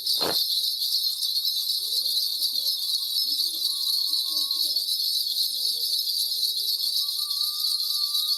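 A Korean shaman's spirit bells, a cluster of small bells on a handle, shaken in a steady, continuous jingling to call up the spirit for a reading. A low voice murmurs underneath, and a sharp knock sounds just at the start.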